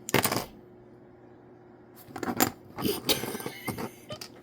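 Small hard plastic miniature pieces being handled: a short sharp clatter at the very start, then a run of light clicks and taps from about halfway in.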